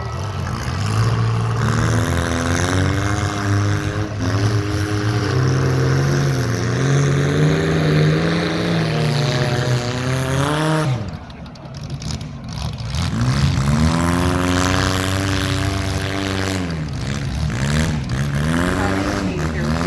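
Compact cars' engines revving hard in a demolition derby, the pitch rising and falling as they accelerate. The revving drops away for a couple of seconds about eleven seconds in, then picks up again.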